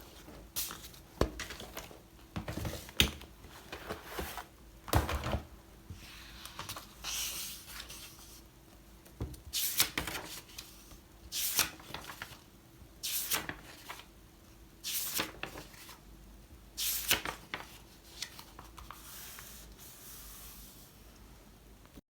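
Close-up handling sounds of rustling and rubbing, with a run of short scraping strokes in the second half, about one every two seconds, over a faint steady hum. The sound cuts off abruptly near the end.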